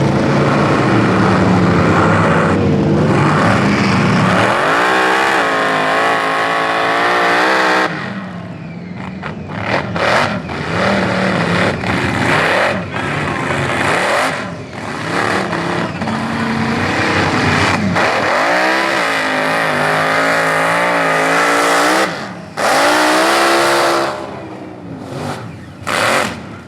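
Mud bog truck's engine revving hard, its pitch climbing and falling as the throttle is worked, with brief let-offs about a third of the way in and again near the end.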